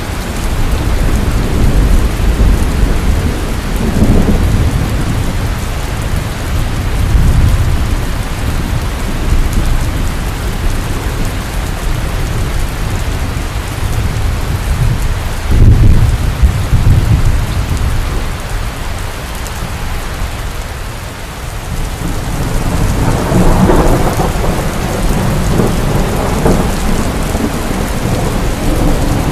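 Heavy rain falling steadily with repeated rolls of thunder. A sudden thunderclap about halfway through is the loudest moment, and a long rumbling roll follows near the end.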